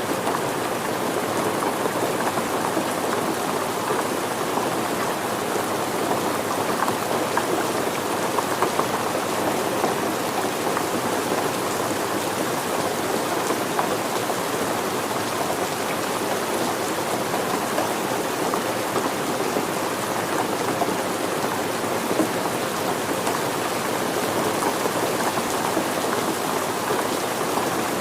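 Steady rain falling on surfaces, a dense even patter of drops without letup.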